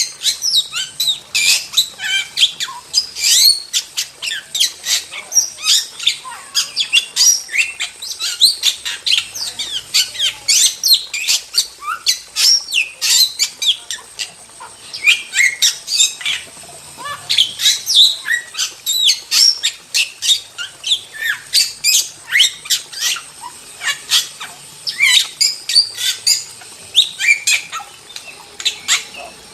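Starling song: a continuous, fast stream of sharp chirps, whistles and squawks, one note after another with hardly a pause.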